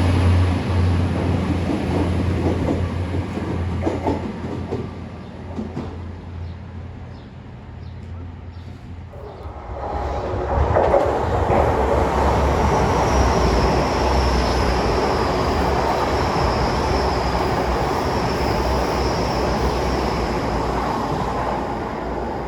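A train's running noise dies away over the first several seconds, then a Great Western Railway Class 802 bi-mode train comes in loudly from about ten seconds in, its wheels clicking over the rails, with a steady high whine over the top.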